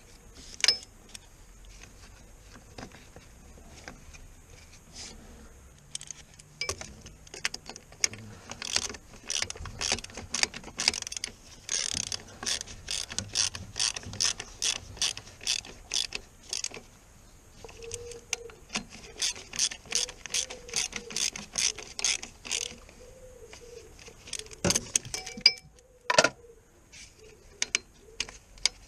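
Hand ratchet clicking in runs of quick strokes, a few clicks a second with short pauses, as fasteners are turned. Near the end come a couple of sharp metallic knocks.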